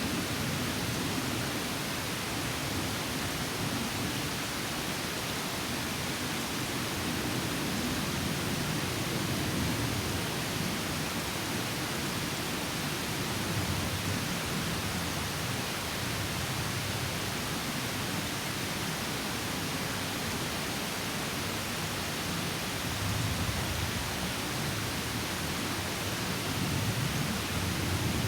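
Water of a small stream pouring over a little waterfall, a steady rushing with slow surges in its deeper part.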